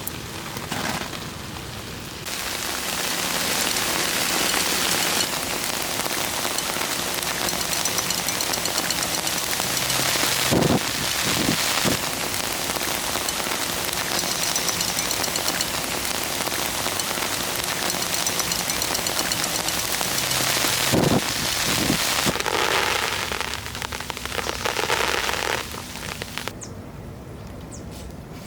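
Heavy rain pouring down steadily, with a few dull low thumps partway through. It thins out abruptly near the end.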